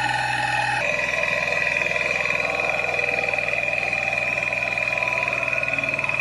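Heavy vehicle's diesel engine running steadily, with a steady high whine over it; the engine note shifts about a second in.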